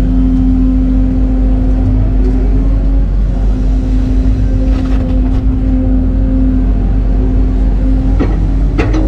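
Excavator's diesel engine running steadily under work, with a constant droning tone. Sharp metallic clanks about five seconds in and again near the end.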